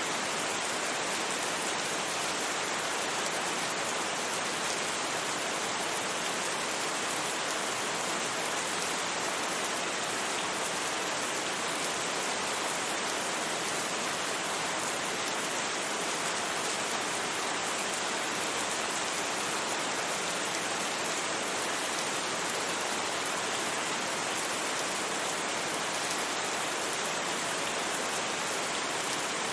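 Steady rain: an even, unbroken hiss of falling rain with no thunder and no changes.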